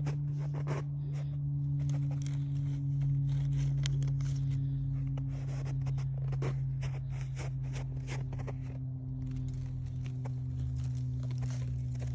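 A steady low hum runs unbroken, with irregular clicks, crackles and rustling on top.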